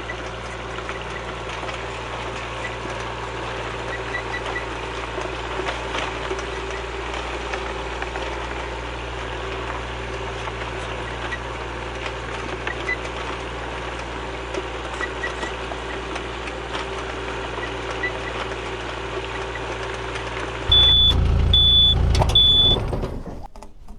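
An engine runs steadily. About 21 seconds in it gets louder, with three short high beeps, then cuts off near the end.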